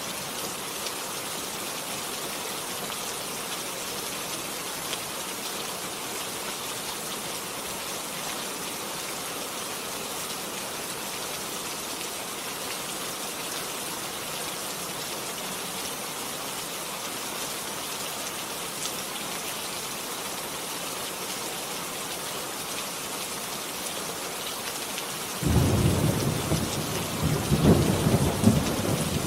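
Heavy rain falling steadily. Near the end a loud, low rumble of thunder comes in suddenly and rolls on.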